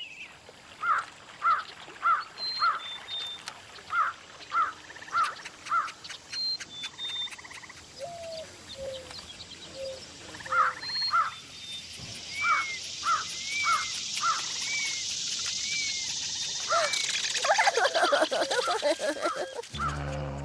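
Outdoor nature ambience of several birds calling: runs of short repeated chirps, about two a second, mixed with high thin notes and lower rising-and-falling calls. In the last few seconds a steady high hiss swells and the calls crowd together.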